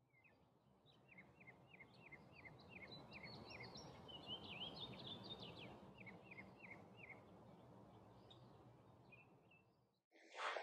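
Faint outdoor ambience with small birds calling: a run of quick downward-sweeping chirps, about four a second, with a brief higher warbling phrase midway. A short, louder sound cuts in at the very end.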